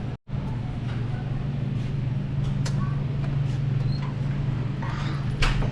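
A steady low mechanical hum, cut by a brief gap of silence just after the start, with a short knock near the end.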